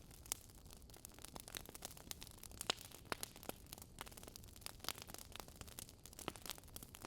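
Burning logs crackling: irregular sharp pops and snaps, a few every second, over a faint steady hiss.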